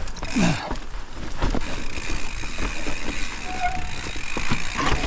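Mountain bike riding down a wet rocky trail: tyres rumbling and the bike rattling and knocking over rock, with wind on the microphone.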